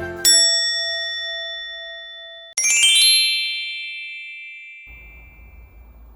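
Two bright chime strikes, each ringing out slowly. The second, about two and a half seconds after the first, has a sparkling cascade of high tones. A faint steady background hiss comes in near the end.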